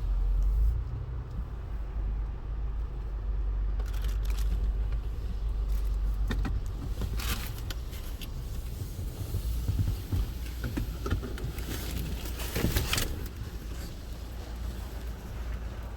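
Belanger FreeStyler in-bay automatic car wash running: a steady low rumble with short bursts of hissing spray, the strongest about seven seconds in and again near thirteen seconds.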